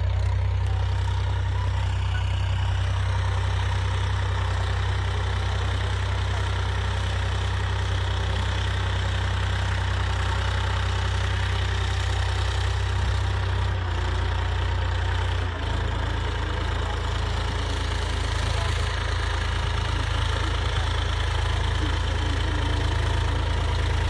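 Massey Ferguson 9500 tractor's diesel engine running steadily with a deep, even drone; its low note shifts about two-thirds of the way through.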